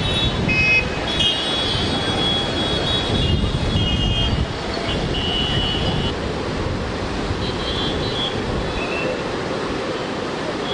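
Steady rushing of the flooded Narmada River with wind on the microphone, a little louder for the first four or five seconds. Short, steady high tones come and go over it.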